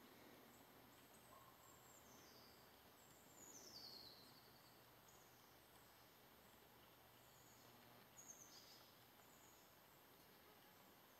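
Near-silent forest ambience with a few faint, high bird calls that slide downward in pitch, the clearest about three to four seconds in and again about eight seconds in.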